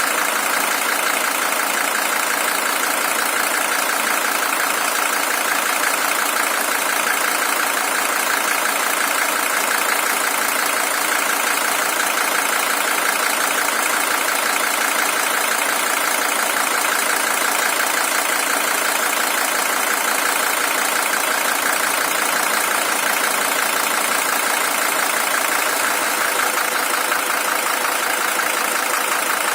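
Mercedes-Benz OM617 five-cylinder diesel engine, the original unit with 620,000 km, idling steadily in a W123 300TD.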